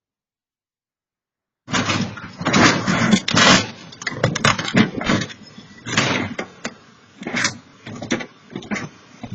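Silence, then about two seconds in a loud run of irregular bangs and thumps that grow smaller and further apart toward the end.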